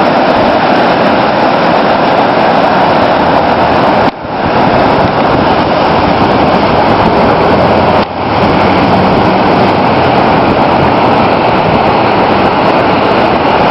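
Loud, steady rush of churning floodwater on the swollen Moira River, dropping out briefly twice.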